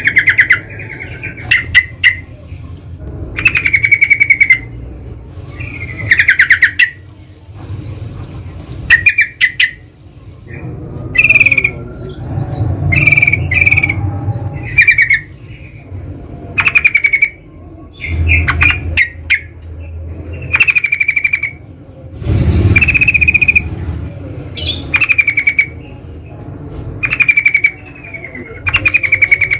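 Yellow-vented bulbuls (trucukan) calling in the wild: short, rapidly pulsed chattering phrases repeated every second or two throughout, over a steady low rumble of background noise.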